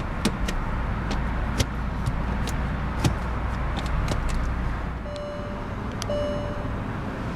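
Low steady hum of the Volkswagen Phaeton's 6-litre W12 engine idling, heard from inside the cabin, with scattered light clicks. Near the end come two short electronic beeps about a second apart.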